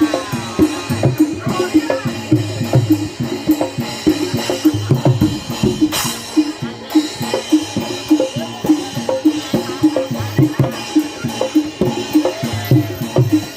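Barongan accompaniment music from a Javanese gamelan-style ensemble: hand drums beating a fast, steady rhythm under repeated struck metallic tones.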